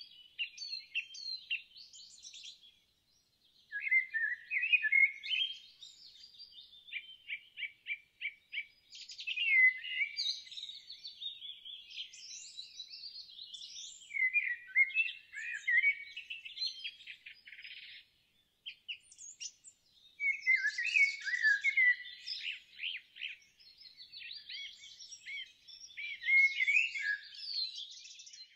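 Songbirds singing: a dense, overlapping mix of chirps, whistled notes and quick trills in phrases with short pauses between them, including a run of rapid, evenly spaced notes about eight seconds in.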